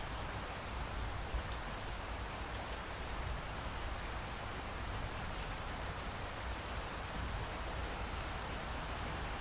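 Steady rainfall, an even hiss of drops on surfaces, with a low rumble underneath.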